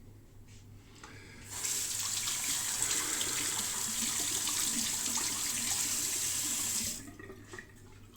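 Water running from a tap into a sink in a steady stream for about five seconds, turned on about a second and a half in and shut off near the end.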